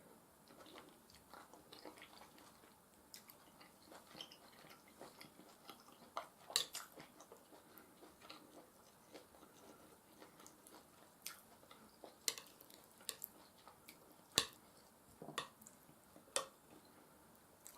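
Close-miked chewing of mashed potatoes and tender beef stew: soft, wet mouth clicks and smacks coming irregularly, with a few sharper clicks among them.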